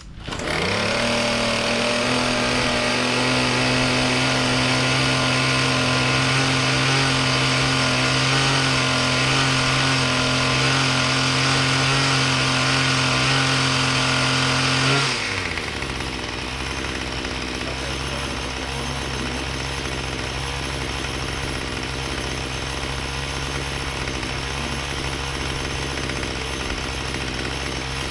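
Troy-Bilt TB225 mini tiller's small engine speeding up within the first second and running fast and steady for about fifteen seconds, then dropping abruptly to a slower, quieter run for the rest.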